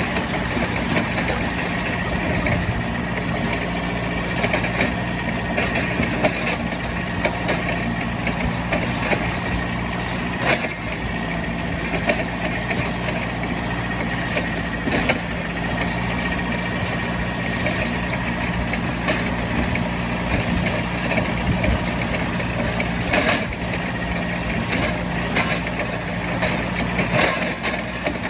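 Truck engine idling steadily at an even pitch, with a few scattered knocks.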